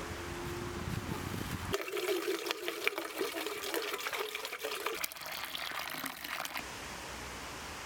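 Liquid being poured and splashing for about three seconds, starting about two seconds in and tailing off, over a steady background hiss.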